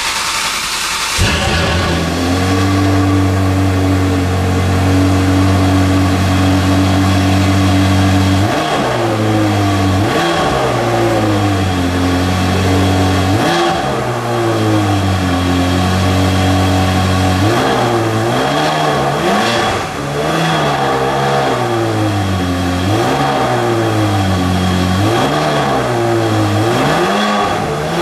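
Ferrari 360's V8 cold start through a Tubi exhaust: it catches with a brief flare, then settles into a steady high cold idle. From about eight seconds in, the throttle is blipped in short revs that rise and fall. After a steady spell it is blipped again repeatedly, every second or two.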